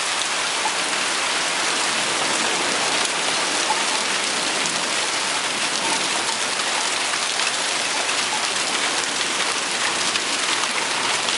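Hail and heavy rain pelting down, a dense, steady hiss speckled with many small, sharp ticks of stones striking hard surfaces.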